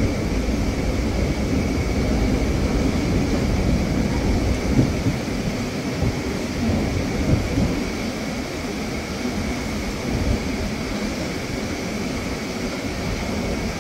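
Steady rumble of a moving electric local train heard from inside the coach: wheels running on the rails, with wind rushing past the open window and a few brief louder knocks.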